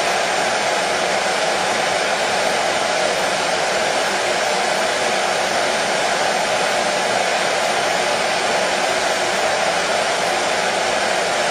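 Hair dryer running steadily, a constant blowing whir with no change in level, played as soothing white noise for a colicky baby.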